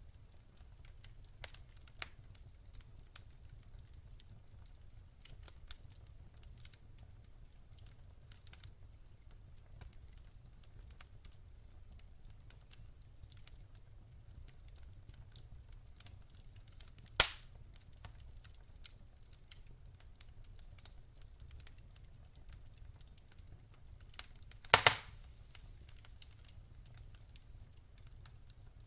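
Campfire crackling: scattered small snaps of burning wood over a low rumble, with two loud sharp pops, about halfway through and again near the end, the second followed by a brief hiss.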